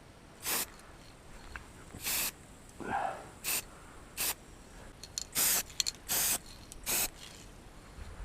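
Aerosol can of heat-resistant paint sprayed in about seven short bursts, each a hiss of a few tenths of a second.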